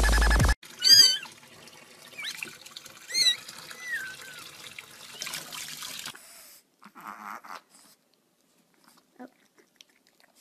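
A cat meowing several times in short wavering calls, the first and loudest about a second in, over a steady hiss that stops about six seconds in. Just before the meows, electronic music cuts off abruptly.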